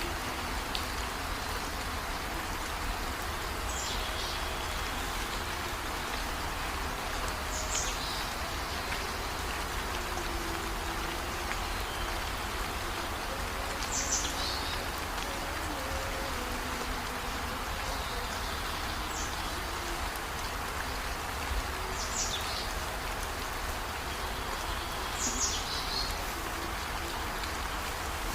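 Heavy rain falling steadily. A short, high call that falls in pitch recurs every few seconds.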